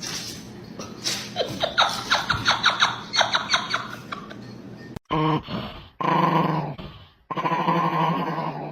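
A dog vocalizing: first a quick run of short, rising yelps, then, after an abrupt break, three stretches of longer held calls at a steady pitch.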